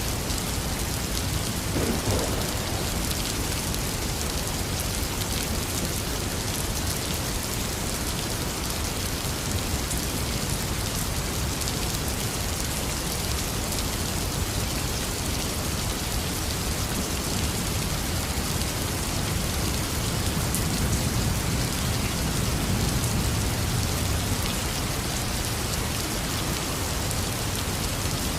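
Heavy rain falling steadily on a surface. A low rumble of thunder swells and fades about two-thirds of the way through.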